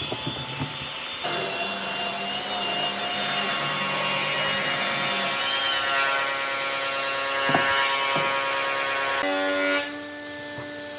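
Electric power tool running on wood, its motor whining steadily with the pitch wavering slightly as the load changes, with a couple of short knocks; the sound drops in level near the end.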